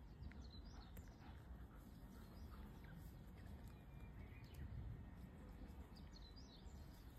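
Quiet outdoor ambience: a low steady rumble with a few faint bird chirps, several of them near the start, one in the middle and a few more near the end.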